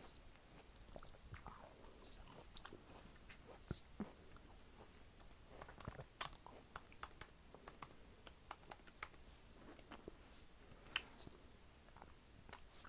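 A person chewing food close to the microphone, with soft wet mouth clicks throughout. Three louder sharp clicks come about six, eleven and twelve and a half seconds in.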